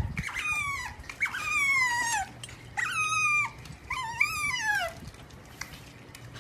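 A dog whining in four high-pitched cries, each drawn out for up to a second and sliding down in pitch.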